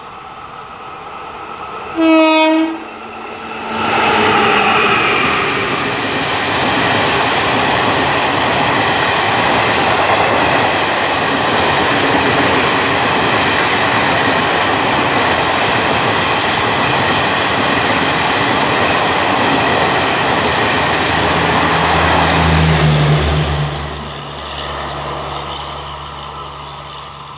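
WAM-4 electric locomotive sounding its horn once, a short loud blast about two seconds in, then the locomotive and its train of coaches passing close by with loud steady wheel-on-rail noise for about twenty seconds, dropping away near the end.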